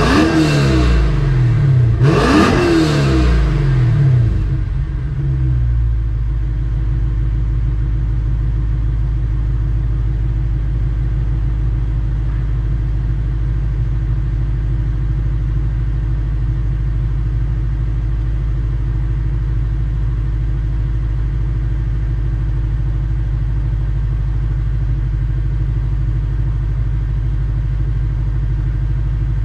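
Lexus GS F's 5.0-litre V8 through an EXART valved aftermarket exhaust, revved twice with no load, once at the start and again about two seconds in, then dropping back to a steady, even idle by about six seconds in.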